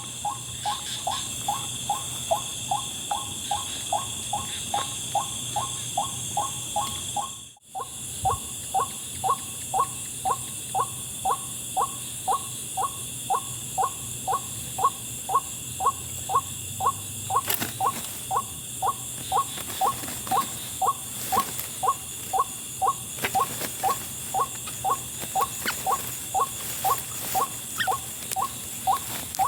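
White-breasted waterhen calling: a short, rising-and-falling 'wak' note repeated very evenly about twice a second. Steady high chirring of night insects runs beneath it. The sound cuts out briefly about seven seconds in.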